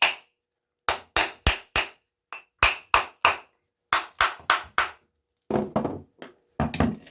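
Hammer blows on an aluminium housing, struck all around to loosen it from the copper inside. The sharp metallic knocks come in quick runs of three or four, with short pauses between runs.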